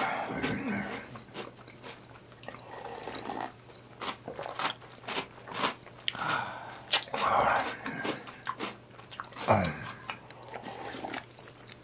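Close-miked mouth sounds of cereal in milk being eaten: wet chewing and biting with many sharp clicks and lip smacks.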